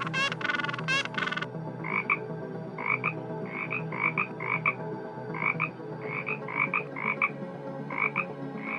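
Harsh, loud animal calls for about the first second and a half, then a long run of short, high-pitched calls, often two or three close together, about two a second, over a steady low hum.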